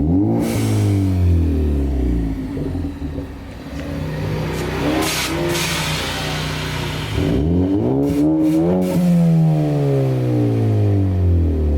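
Ford Focus ST's turbocharged 2.0-litre four-cylinder revved hard through its exhaust twice, each time climbing fast and then falling slowly back to idle. Between the two revs comes a short blip with a brief hiss.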